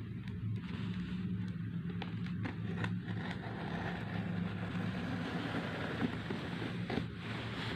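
Clicks and rustling of a parcel's packaging being handled and opened, over a steady low hum.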